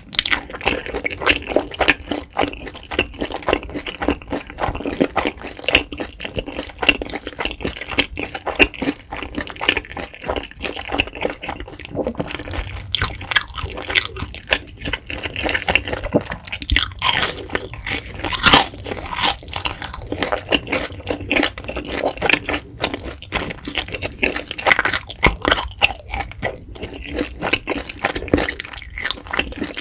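Close-miked chewing of a mouthful of food: a steady run of many small clicks and crackles, loudest a little past the middle.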